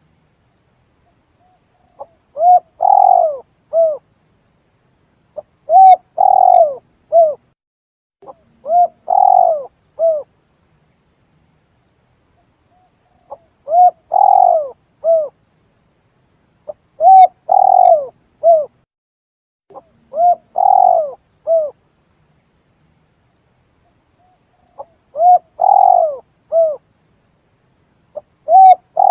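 Spotted dove (tekukur) cooing: short phrases of three or four rising-and-falling coos, repeated every few seconds, played as a hunting lure call.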